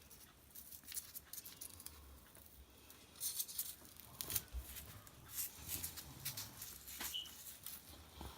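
Light rustling and small crisp ticks as craft materials are handled, cut and pressed together, with denser bursts of crinkling a few seconds in and a brief squeak near the end.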